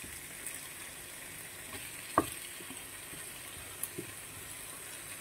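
Slices of Serrano ham frying in a nonstick pan, with a soft, steady sizzle. A single sharp click comes about two seconds in.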